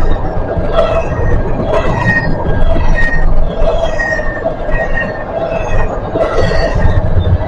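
Norfolk Southern freight train rolling past, a steady rumble of wheels on rail. Over it a metallic ringing tone swells and fades about once a second.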